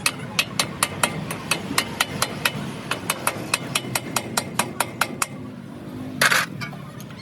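Rapid light hammer taps on a truck wheel hub, about five a second for some five seconds, then one louder short burst of noise about six seconds in.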